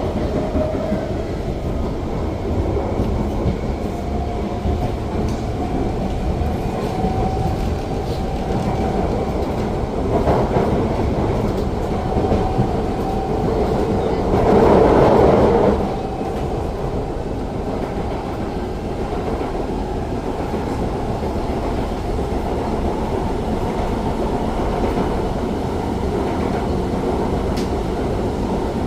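Siemens C651 metro train heard from inside the car while running between stations: a steady rumble of wheels on track with a faint steady whine. About halfway through, a louder rush of noise swells for a second or two, then drops back.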